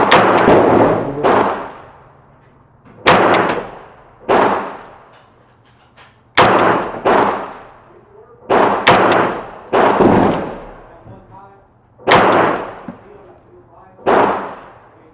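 ARP airsoft electric rifle firing single shots and short bursts at uneven gaps, about a dozen in all, each trailing off in echo.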